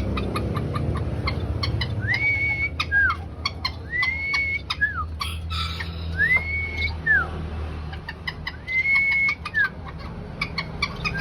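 A bird's repeated two-part whistle: a note that rises and holds, then a short falling note, about every two seconds, over many quick short chirps or ticks from birds in an aviary.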